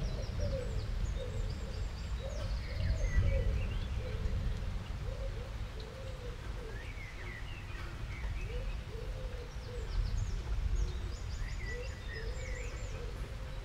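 Birds chirping and twittering in short trills, over a steady low rumble of ambient noise, with short, low, wavering calls repeating through it.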